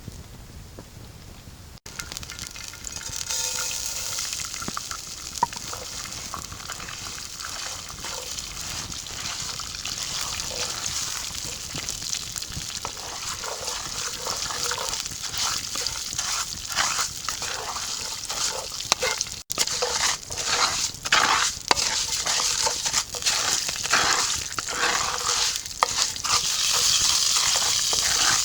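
Food sizzling in hot oil in a cooking pot, starting about two seconds in, with frequent short clicks and scrapes of stirring that grow busier and louder in the second half.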